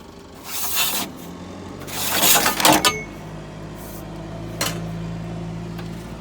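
Scrap cable and conduit being pulled by hand out of a box, two rustling, scraping bursts, the second louder. A sharp click follows, and from about four seconds in a low steady hum runs under it.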